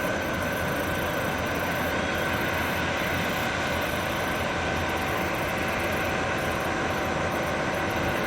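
Airbus A350's Rolls-Royce Trent XWB turbofan engines running at steady power: a constant jet rush with a few steady whining tones on top.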